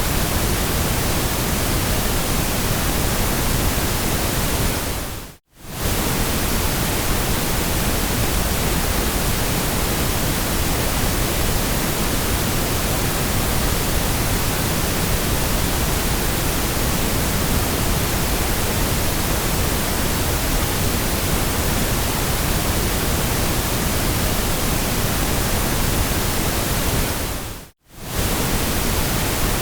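Steady white noise, an even hiss spread across all pitches, that dips briefly to silence twice: about five seconds in and again near the end.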